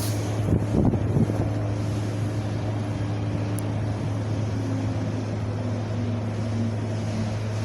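Wind blowing in a steady low rumble, with a few stronger gusts buffeting the microphone about a second in.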